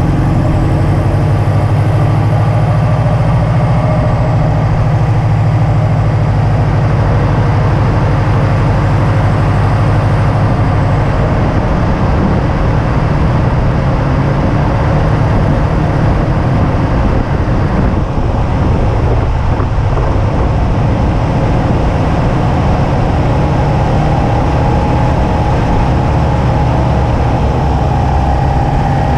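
2005 Subaru WRX wagon's turbocharged flat-four running steadily at a paced cruising speed, with continuous road and wind noise. The engine note changes about eleven seconds in and dips briefly a little past halfway.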